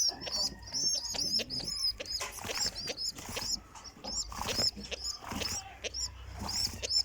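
Birds chirping rapidly in short high-pitched chirps that rise and fall, several a second, with scattered soft clicks and knocks.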